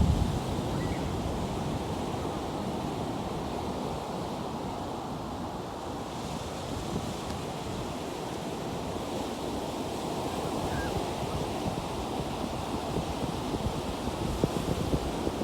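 Ocean surf washing steadily, with wind rushing on the microphone. The tail of a low thump dies away right at the start.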